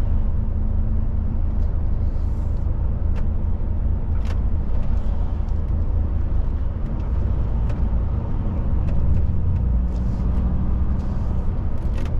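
Steady low rumble of a DAF truck's diesel engine and road noise inside the cab, with a few faint clicks and knocks scattered through it.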